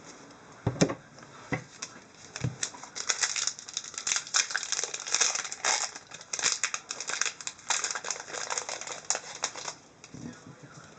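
Crinkling and rustling of trading-card packaging being handled, after a few light knocks in the first seconds. The crinkling stops shortly before the end.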